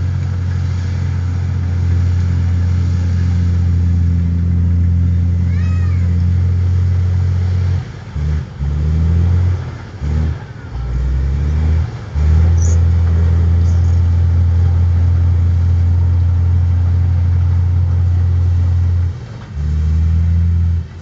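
Heavy diesel engine of earthmoving machinery running, a loud low drone. It falters and dips several times in the middle and once more near the end.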